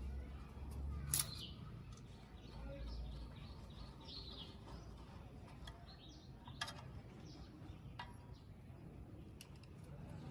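Birds chirping, with a few sharp clicks over a low steady background hum.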